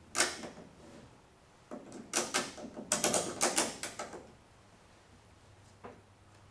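Hand socket ratchet clicking in three short bursts of rapid strokes as a car's new gas tank is drawn up a little at a time.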